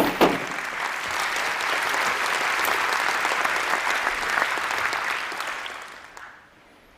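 Audience applauding, starting just after two sharp knocks at the very beginning and dying away about six seconds in.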